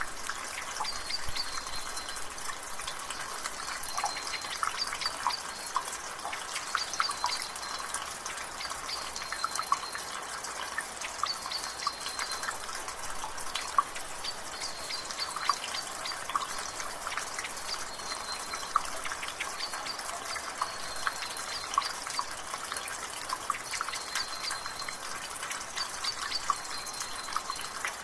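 Water dripping and splashing from a roof gutter over the steady hiss of rain and drizzle, the drops landing irregularly several times a second. A bird calls in the background with short high notes every second or two.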